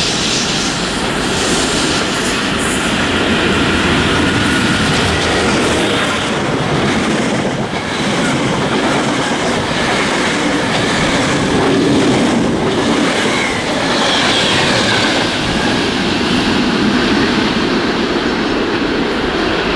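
Class 90 electric locomotive and Mark 3 coaches running past close to the platform, with loud steady running noise and the wheels clattering over rail joints.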